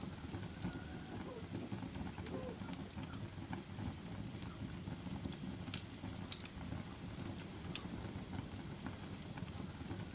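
Fire burning with a steady low rumble and sharp crackles and pops every second or so, one louder pop near the end.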